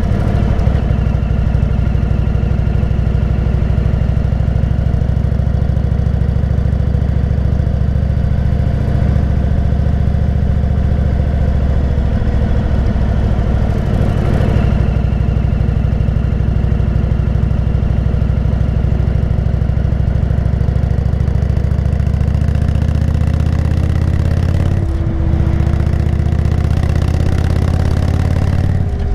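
Motorcycle engine running steadily under way while cruising, with a brief dip near the end.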